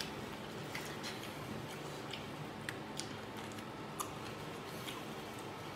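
Someone chewing a bite of charcoal-grilled pork intestine taken off a skewer: faint, irregular wet mouth clicks, roughly one or two a second.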